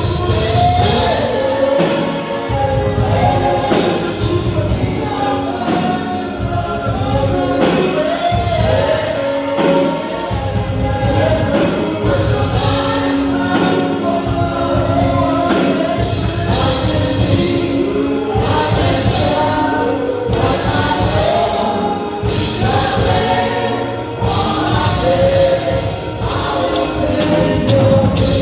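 Gospel choir singing with a band, drums keeping a steady beat.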